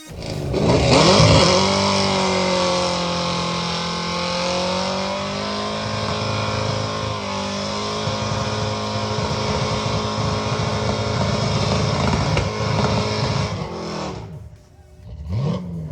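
A vehicle engine revs up sharply, holds at a high steady speed for about thirteen seconds, then falls away; it revs up again briefly near the end.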